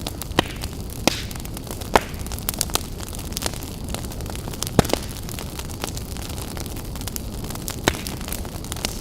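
Campfire burning: irregular sharp crackles and pops over a steady low rumble, the loudest pop about halfway through.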